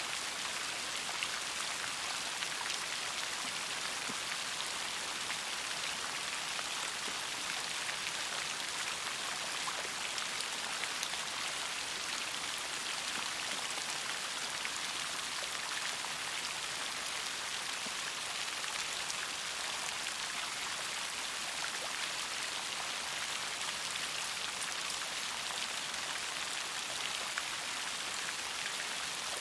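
Steady rain falling, a dense even hiss with many separate drops ticking on a surface.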